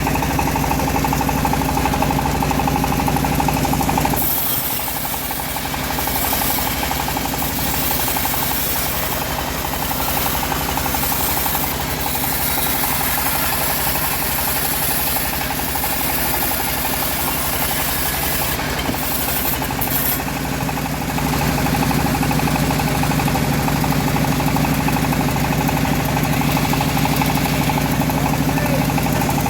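Engine-driven homemade bandsaw mill running steadily. From about four seconds in until about twenty-one seconds the steady engine tone weakens under a strong high hiss as the blade cuts through the mahogany log, then the plain running sound returns.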